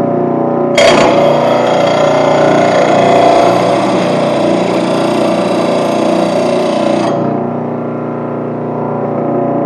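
An electric lawn mower blade sharpener runs steadily with a whining drone. From about a second in until about seven seconds in, a steel mower blade is ground against the wheel, adding a harsh hissing grind that starts and stops abruptly.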